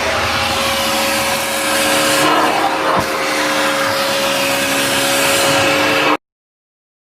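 Kenmore 81214 bagged canister vacuum cleaner running steadily: a loud rushing noise with a steady tone in it. It cuts off abruptly about six seconds in.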